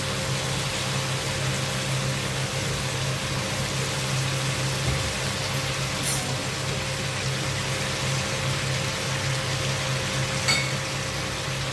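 Stir-fry of chicken, vegetables and tofu sizzling in a hot pan just after soy sauce goes in, a steady hiss over a low hum. Two light clicks of a utensil against the pan, about six seconds in and near the end.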